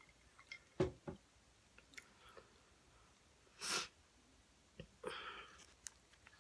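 Close-miked mouth sounds of a person eating: soft clicks and smacks of chewing, with a short breathy sniff a little over halfway and a softer breath about five seconds in.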